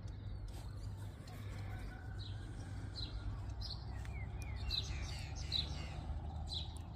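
Birds chirping: short high calls repeating every half second or so, with a few quick falling notes about four seconds in, over a steady low hum.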